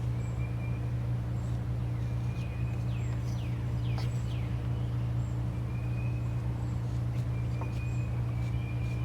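Birds calling over a steady low hum: short high chirps throughout, and a run of quick downward-sweeping notes around the middle.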